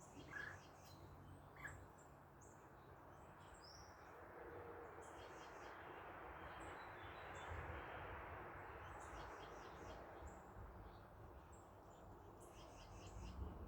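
Faint backyard birds chirping in short, high, repeated trills, while the rush of a passing car swells and fades in the middle.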